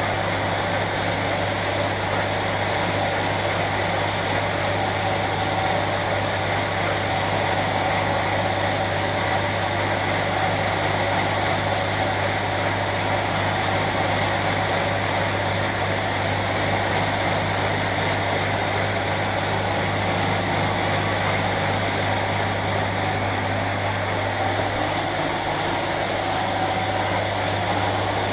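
Steady machine drone with a strong low hum and an even hiss over it, running unchanged throughout.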